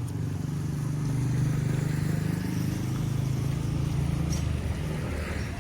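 A motor vehicle engine running close by with a steady low hum, easing off near the end.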